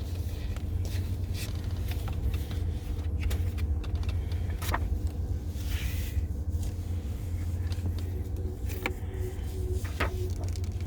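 A steady low rumble with scattered small clicks and rustles.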